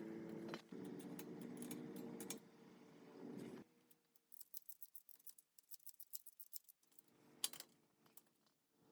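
A small motor hums steadily with scattered clicks, then stops about three and a half seconds in. A run of light, irregular clicks and ticks follows, several a second, and the hum starts again near the end with one sharper click.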